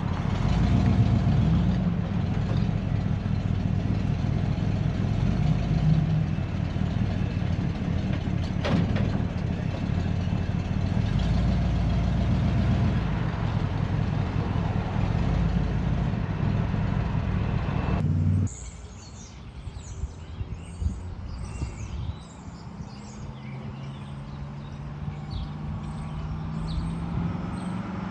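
1955 GMC 100's V8 engine running as the truck is driven, with a heavy low rumble and an occasional knock. About two-thirds of the way through, the sound drops suddenly to a quieter, steadier engine note.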